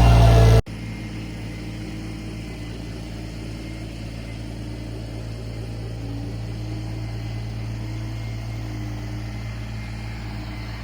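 Mini skid steer engine running loud and close for the first half-second, then an abrupt cut to a quieter, steady engine hum.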